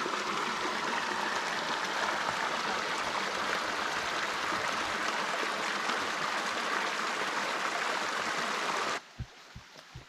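Flowing stream water, a steady even rush, that cuts off abruptly about nine seconds in, leaving a few faint low thuds.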